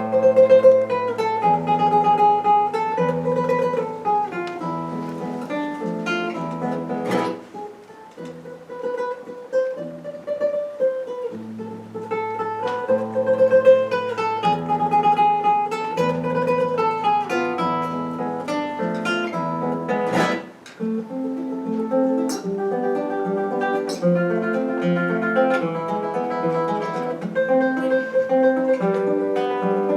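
Acoustic guitar playing a piece of music, plucked melody over changing chords and a bass line, with two brief pauses in the phrasing.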